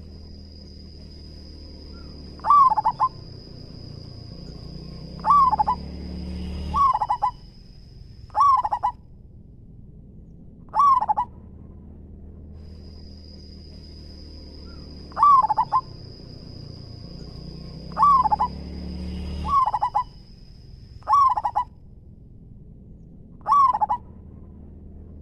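Zebra dove cooing: short, curved coo phrases repeated every two to three seconds, about ten in all. A steady high-pitched thin tone and a low hum run beneath the calls.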